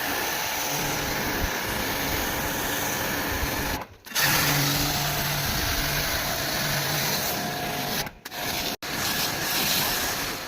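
Jet pump (pressure washer) running, its motor humming under the hiss of the water jet, as the split AC unit is washed out. The spray cuts off briefly twice, about four seconds in and again about eight seconds in.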